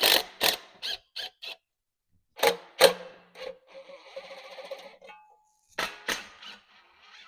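Sharp metallic clicks and knocks of tools at work on an engine's small shield plate while its 10 mm bolts are taken out, with a short steady whirring run of a tool about halfway through.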